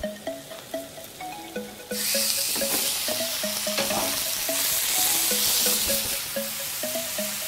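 Food sizzling in hot oil in a wok, starting about two seconds in and holding steady, under background music with a repeating melody.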